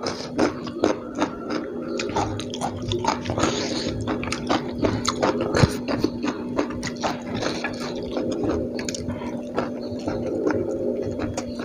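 A man chewing a mouthful of ayam geprek (smashed fried chicken) and rice eaten by hand, close to the microphone, with many quick smacks and clicks, over a steady low hum.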